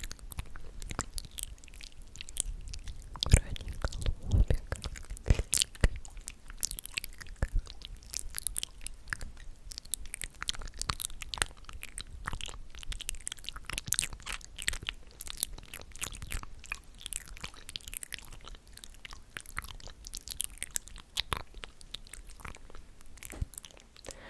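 ASMR mouth sounds close to the microphone: a rapid, irregular run of wet clicks and smacks, a little louder a few seconds in.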